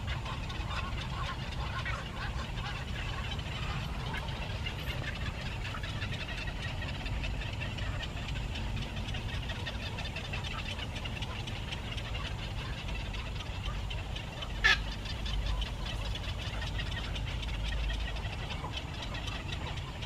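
Small birds chirping over a steady low rumble, with one short, sharp, louder sound about fifteen seconds in.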